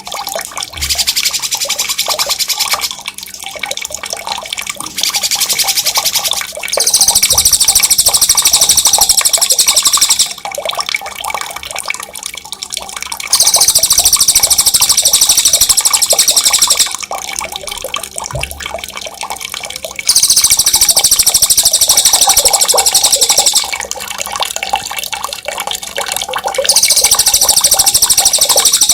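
A songbird singing a loud, sharp, rapid high-pitched rolling trill in bursts of about three and a half seconds, repeated every six to seven seconds. Running water trickles and gurgles underneath and between the bursts.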